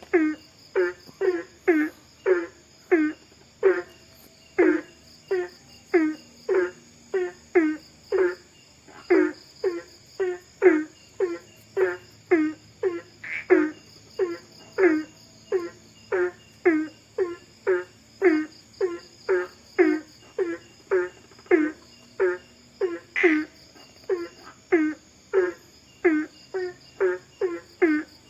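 Night forest ambience: an animal's short call repeated about twice a second, each one falling in pitch, over a steady high trill of crickets or other insects.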